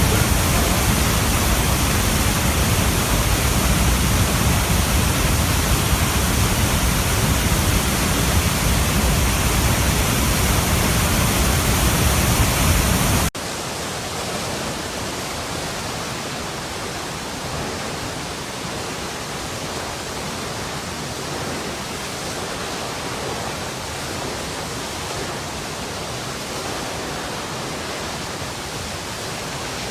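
Running water rushing as a steady, dense, even noise. About 13 seconds in it cuts abruptly to a quieter, thinner rush with less bass.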